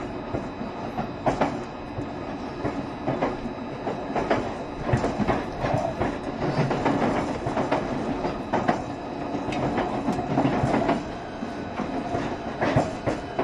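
JR Shikoku 7200 series electric multiple unit running along the line: a steady rumble of wheels on rail with many irregular sharp knocks from the wheels passing over rail joints, and faint steady tones over the top.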